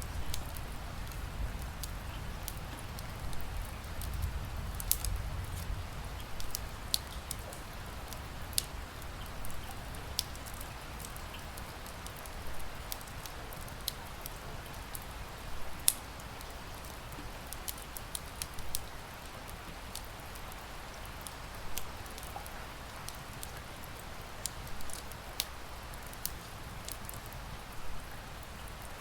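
Wood fire crackling with sharp, irregular pops over a steady hiss of rain, with a low rumble in the first few seconds.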